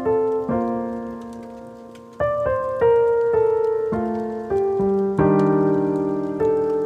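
Slow, gentle piano music: chords and single notes struck a few at a time, each left to ring and fade.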